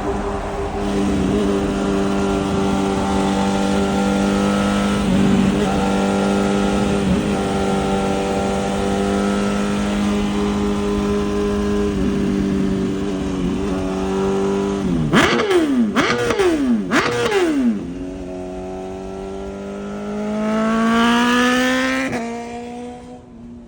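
BMW S1000RR's inline-four engine through a titanium full exhaust, holding steady revs for about fifteen seconds. Its revs then drop and rise sharply three times in quick succession, followed by a smooth climbing pull as the bike accelerates, which cuts off near the end.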